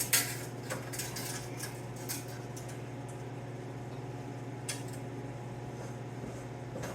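Light metallic clinks and clatter of metal being handled, several in the first two seconds and one more midway, over a steady low hum.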